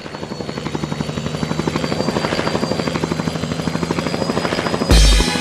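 Helicopter rotor sound fading in, its blades chopping in a fast even pulse; about five seconds in a loud hit with a heavy low thump comes in as the band's music starts.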